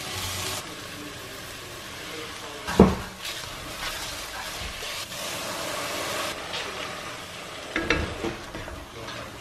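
Chopped onion and rice sizzling in a hot non-stick pan while being stirred with a plastic ladle, with two sharp knocks of the ladle against the pan about three and eight seconds in.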